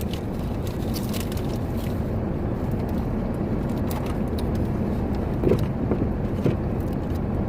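Steady low rumble of a truck idling with its heater running, heard from inside the cab, with a few scattered light clicks.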